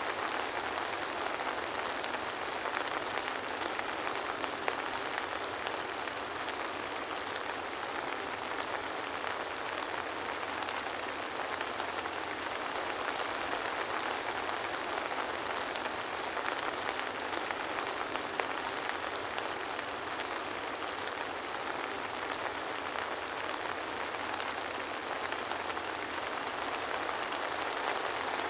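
Steady soft rain falling, an even patter of drops with no thunder.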